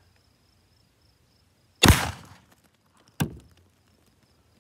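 A 12-gauge pump-action shotgun, an SDS Imports Tokarev TX3 12 HD loaded with steel birdshot, fires one shot about two seconds in, with a short decaying tail. About a second and a half later comes a shorter, quieter sharp clack.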